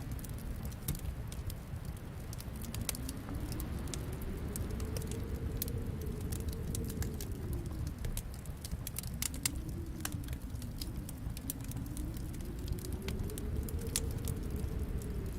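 Wood fire crackling, with frequent sharp pops, over a low steady rumble. A wind howl slowly rises and falls in pitch: it climbs over the first few seconds, drops away a little past halfway, then climbs again.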